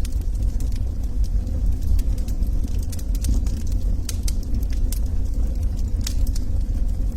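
Log fire in a fireplace crackling: scattered sharp pops and snaps over a steady low rumble of the burning fire.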